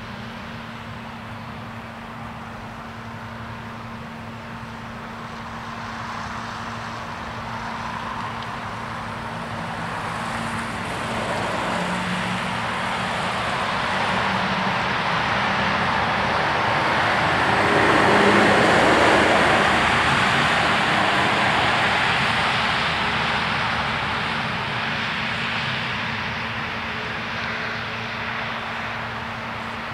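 Level-crossing bell ringing steadily as an X11 electric train approaches and passes. The train's noise swells over about twelve seconds to a peak, then fades away.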